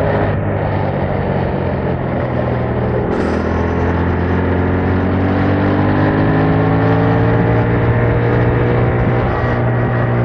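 2021 Yamaha MT-07's 689 cc parallel-twin engine through its stock exhaust, running under way. Its note shifts about three seconds in, then the revs climb slowly and steadily.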